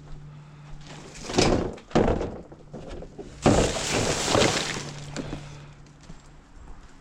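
Rubbish being handled in an overfull bin: two bursts of rustling and clattering, the second longer, about a second and three seconds in.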